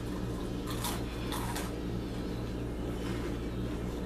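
Takis rolled tortilla chips being crunched in the mouth: a few short crunches about a second in and again half a second later, over a steady low hum.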